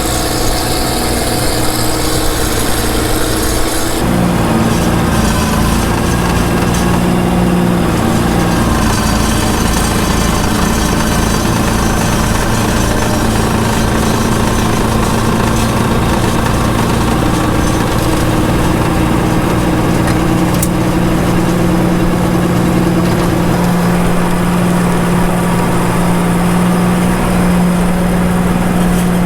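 Ford 1720 compact tractor's three-cylinder diesel engine running steadily, with a high hiss over it that eases about four seconds in.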